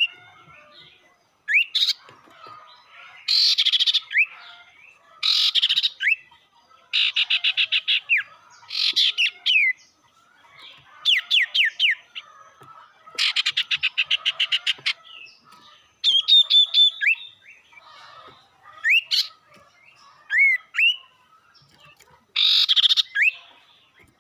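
Sirtu (sirpu) songbird calling in a lure recording: bursts of fast chattering trills about a second long, many ending in short rising whistles, repeated every couple of seconds with a few clear whistled notes between.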